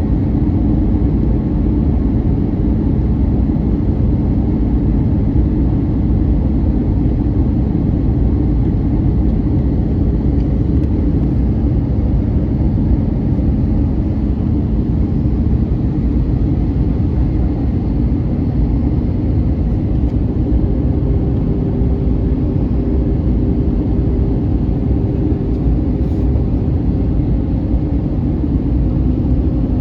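Airbus A321neoLR cabin noise in flight: a steady low rumble of engines and airflow with a few constant hums, a new higher hum coming in about twenty seconds in.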